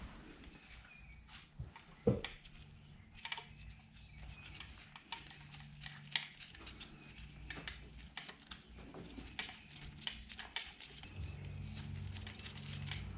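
Scattered light clicks and taps of metal parts and hand tools being handled on an engine block under rebuild, with one louder knock about two seconds in. A faint low hum runs underneath and gets louder near the end.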